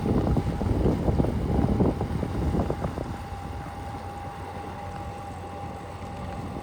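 Wind buffeting the microphone in loud, irregular gusts that ease after about three seconds, with a faint steady hum underneath.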